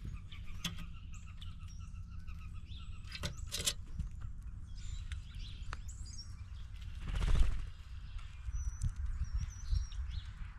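Birds chirping and calling over a low rumble of wind on the microphone, with a few sharp taps and a brief whoosh about seven seconds in.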